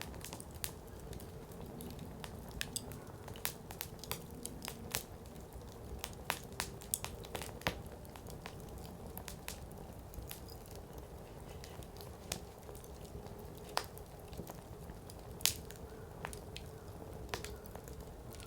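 Firewood burning in an open campfire, crackling with irregular sharp pops and snaps over a steady low rumble of the flames. The loudest pop comes late on.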